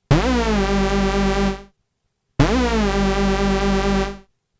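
Korg NTS-1 synthesizer playing the Hoovic 'hoover' oscillator patch, two held notes of about one and a half seconds each. Each note starts with a quick pitch swoop down and back up from the pitch envelope, then holds with a steady wobble from pulse-width modulation at full LFO depth.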